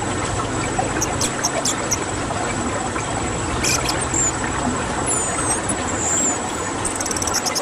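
Steady background noise with faint, high bird chirps and short whistled glides over it, and a fast rattle of high ticks near the end.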